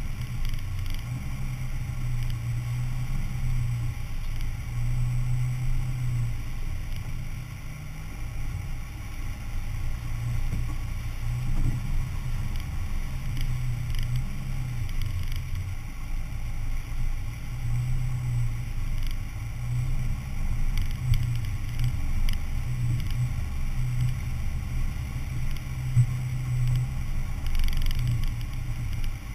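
Four-wheel-drive vehicle's engine running steadily under way, a low drone that swells and eases every second or so, with faint light clatter above it.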